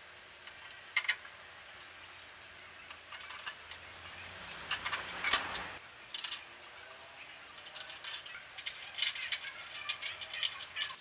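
Scattered sharp clicks and light metallic clinks, with a short rush of noise about five seconds in.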